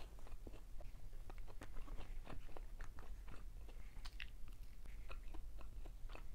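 Close-miked chewing and crunching of crispy fried round scad (galunggong), a dense run of small irregular clicks and crackles from the mouth.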